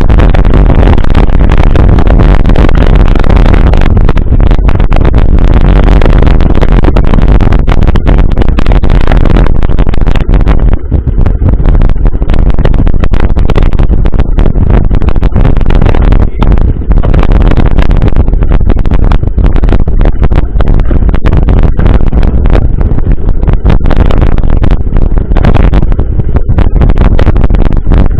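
Loud, steady wind rumble and rattle on a mountain-bike ride camera's microphone while riding, close to clipping, with brief lulls twice.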